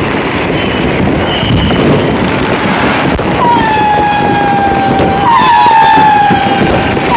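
Dense, continuous crackling and popping of many fireworks going off at once. About three and a half seconds in, a long whistle starts, sliding slowly down in pitch, and a second one joins about two seconds later.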